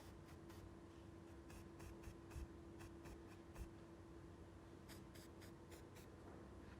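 Faint scattered clicks and light scratching from small hand work, some in quick little runs, over a steady faint electrical hum.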